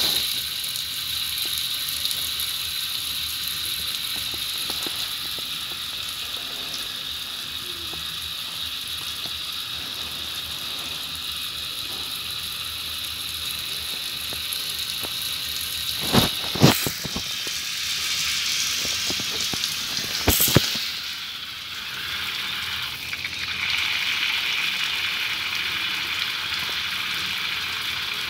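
Steady hiss of water spraying from a tap, with a few loud knocks about halfway through. The hiss changes after a short dip a little past the middle.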